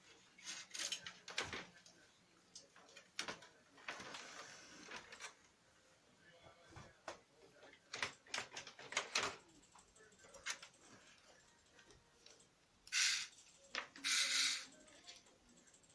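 Irregular clicks and knocks from the plastic parts of a Lexmark X364dn laser printer being handled, with three short scraping bursts, one about four seconds in and two near the end. There is no steady grinding.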